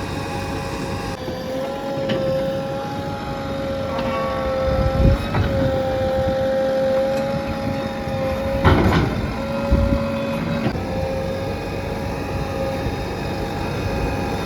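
JCB 3DX backhoe loader working, its engine and hydraulics giving a steady whine that wavers slightly in pitch, with a couple of knocks about five and nine seconds in.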